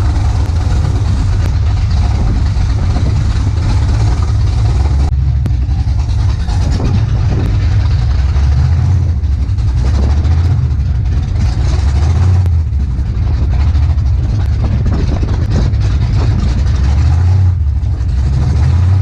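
A car engine running with a heavy, continuous low rumble that swells and eases several times.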